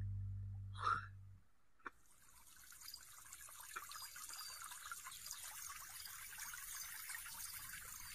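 A held music chord dies away, then faint water trickling continues steadily.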